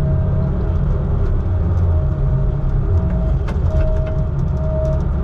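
Vehicle running: a steady low engine and road rumble, with a thin whine that comes and goes.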